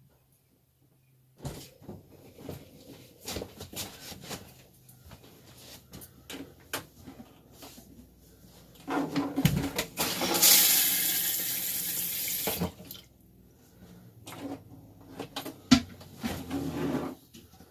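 Thetford RV toilet being flushed after repair to test for leaks: a rush of water into the bowl lasting about two seconds, roughly ten seconds in. Scattered clicks and knocks come before and after it.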